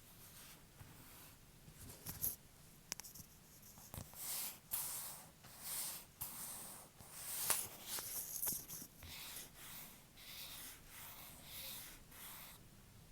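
Fake nails tapping and scratching on objects: sharp clicks mixed with short, scratchy swishes at an irregular pace, busiest in the middle of the stretch.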